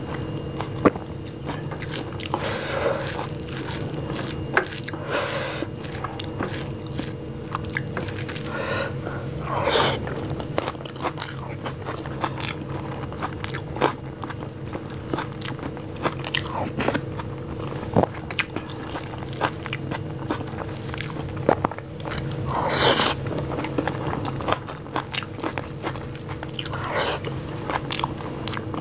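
Close-miked chewing and wet mouth sounds of someone eating rice and soft mashed vegetables by hand, with many small clicks and a few longer rustling bursts. A faint steady hum runs underneath.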